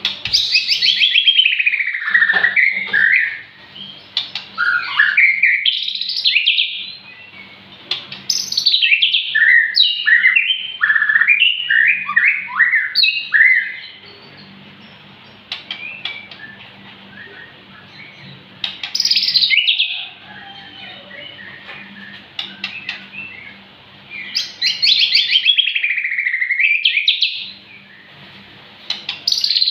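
White-rumped shama (murai batu) singing: loud, varied whistled phrases of quick rising and falling notes, delivered in bursts of a few seconds with short pauses between them.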